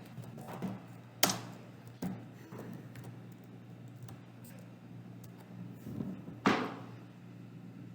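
Computer keyboard being typed on in scattered keystrokes, with two louder clacks, one just over a second in and one near the end, over a steady low hum.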